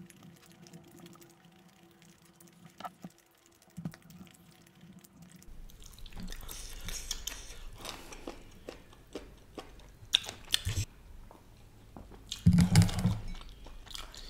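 Close-miked chewing of a fried chicken leg: wet mouth clicks and smacks, faint at first and getting denser and louder from about halfway through.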